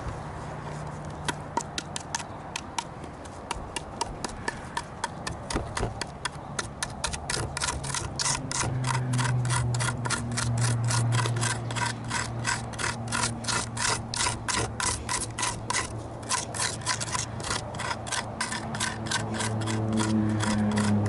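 Hand tool scraping and gouging charred wood out of a burned wooden dish, in quick repeated strokes about three a second that grow louder partway through.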